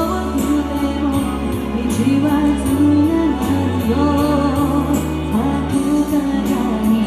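A woman singing a pop song live, with a band accompaniment of a stepping bass line and a steady drum beat.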